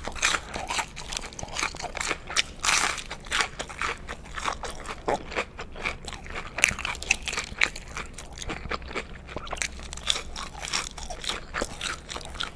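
Close-miked biting and chewing of a crispy breaded McDonald's Spicy Chicken McNugget: irregular crunching and crackling of the breading, with loud bites near the start, about three seconds in and about seven seconds in.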